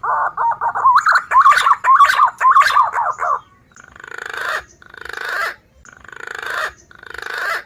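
Green pigeon (punai) call played as a bird lure: about three seconds of warbling, wavering whistles, then four rough, rattling notes about a second apart, each swelling in loudness.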